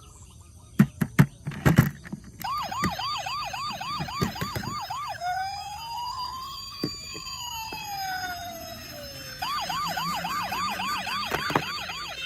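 Toy emergency vehicle's electronic siren, after a few sharp clicks: a fast yelp of about four rising whoops a second, changing to a slower wail that rises and falls, then back to the fast yelp.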